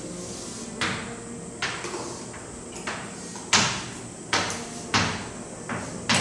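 Writing strokes on a board: about nine short, sharp scratches and taps at irregular intervals, each fading quickly.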